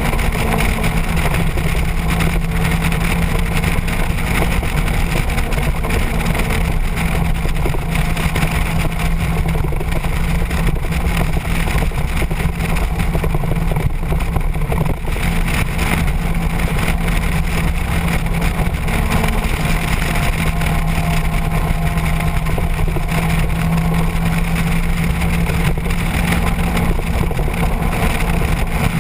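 Motorcycle engine running steadily at cruising speed, its even drone mixed with rushing wind noise on the microphone.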